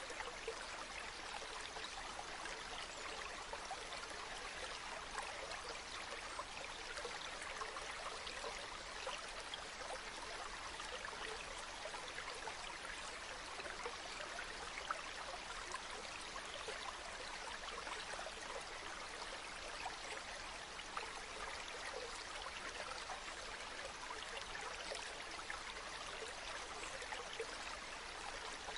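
Steady running water of a small stream, an even trickling and splashing with no change.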